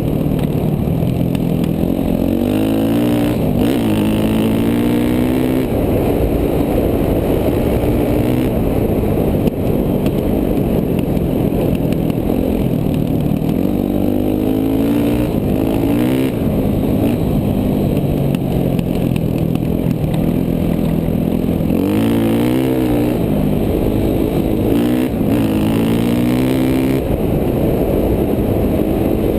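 KTM 450 dual-sport dirt bike's single-cylinder four-stroke engine being ridden hard, its pitch rising and dropping back again and again every few seconds as the throttle is opened and closed.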